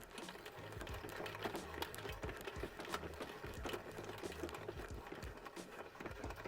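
A clay bar rubbed back and forth over lubricated car paint, making quick, busy scratchy rubbing and clicking, over background music with a repeating bass line.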